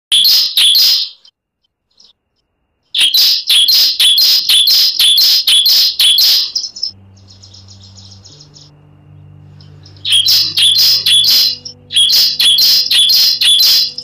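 Bar-winged prinia (ciblek) calling: bursts of loud, sharp, rapidly repeated chirps, about three a second, broken by pauses, played as a lure call to set a caged ciblek singing. In the gap a faint low steady tone runs under it.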